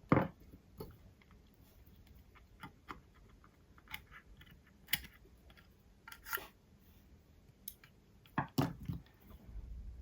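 Irregular light clicks and taps of small phone parts and tools being handled during an iPhone teardown, one every second or so, with a louder cluster about eight and a half seconds in.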